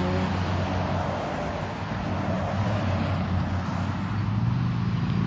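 Road traffic: cars passing on a busy road, a steady noise of engines and tyres that eases slightly about two seconds in and builds again near the end.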